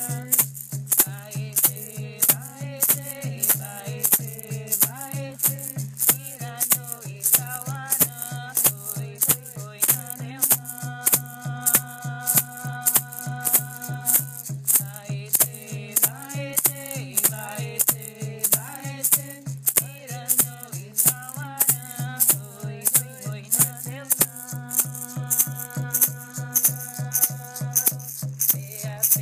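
A Yawanawá chant sung to a shaken rattle, which keeps a steady beat of about two strokes a second. The melody moves with several long held notes.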